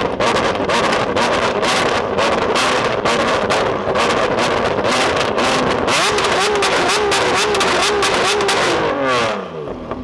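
Lamborghini Aventador SVJ's V12 with a Novitec exhaust running hard, with a rapid string of exhaust crackles and pops. Its pitch wavers from about the middle, then falls away near the end as the car passes and fades.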